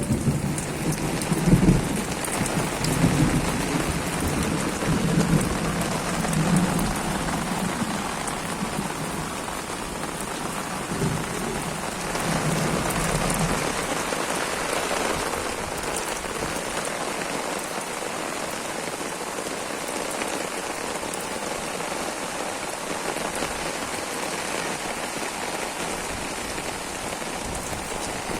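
Heavy rain falling steadily on and around a house. A low rumbling rises and falls under it through roughly the first half, then dies away, leaving the steady hiss of the rain.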